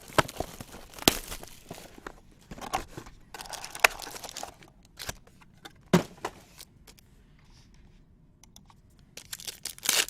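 Trading-card pack wrappers being torn open and crinkled, with cards handled in between: a scattering of short rips, crinkles and taps, busiest near the end.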